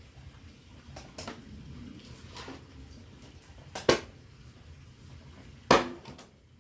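An axe striking firewood: a few light knocks, then two loud, sharp strikes about two seconds apart, as when splitting logs.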